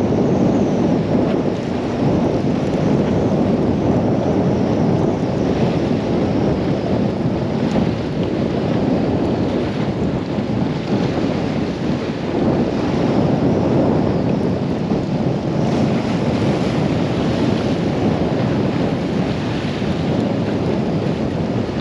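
Storm-force wind buffeting the microphone: a loud, continuous low rumble that swells and eases.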